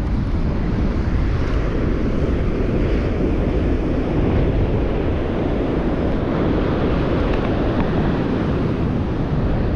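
Strong wind buffeting the microphone, with surf breaking on the beach, a steady noise with no letup.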